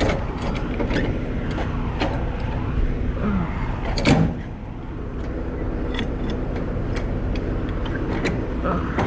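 A semi truck's diesel engine idling steadily, with a run of scattered metallic clicks and clanks from work on the trailer and a louder clank about four seconds in.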